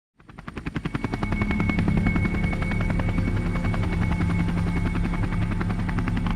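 Helicopter in flight: fast, even chopping of the rotor blades over a steady turbine whine. It fades in over the first second or so, then holds steady.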